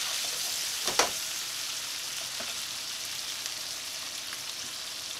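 Prawns and diced chorizo sizzling in olive oil in a nonstick frying pan, a steady hiss that eases off slightly. One sharp knock of the spatula against the pan about a second in as the pan is stirred.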